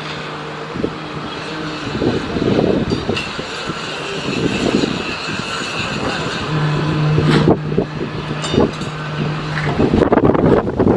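Jet airliner engine noise, with a low steady hum that comes and goes and rough gusty surges.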